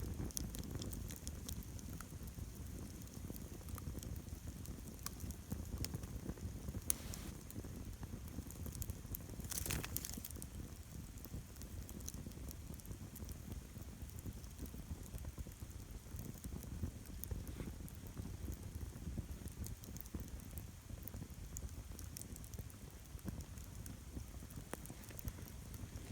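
Wood campfire burning with a steady low rush of flame and scattered crackles and pops, one louder snap about ten seconds in.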